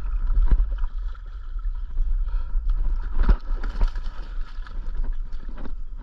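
Wind rumbling on the microphone, with scattered knocks and clatter and one sharp knock about three seconds in, as a hooked bass is fought and brought in.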